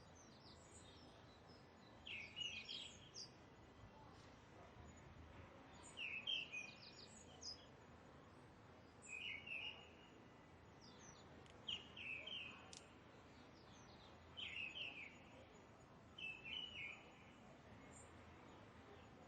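Birds singing: about six short bright chirping phrases, a few seconds apart, over a faint steady hiss.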